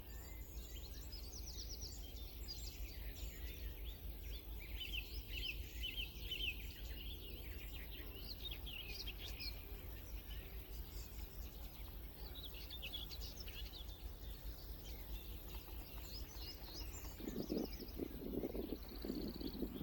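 Small wild birds singing outdoors, quick high trills and chirps coming and going over a steady low background rumble. About three-quarters of the way in, a lower, pulsing sound joins in.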